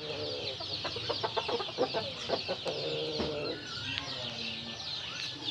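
Chickens clucking in a quick run of short calls, over a constant dense high-pitched chirping.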